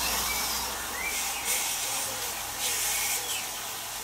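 Butterflied prawns and squid pieces sizzling in hot oil in a frying pan: a steady hiss that swells twice.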